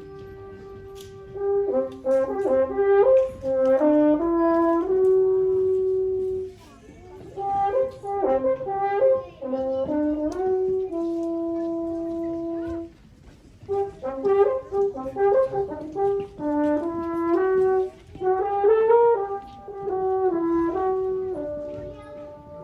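Brass quartet playing: phrases of moving notes between held notes, with two short breaks.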